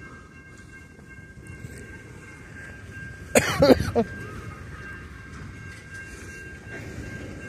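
Coal train hopper cars rolling past on the rails: a steady low rumble with a thin, steady high tone over it. A brief loud burst sounds about three and a half seconds in.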